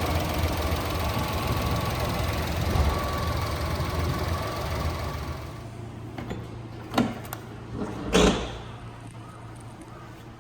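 1995 Honda Acty truck's small three-cylinder engine idling steadily, then shutting off about halfway through. After that, two sharp clunks a little over a second apart, the second the louder.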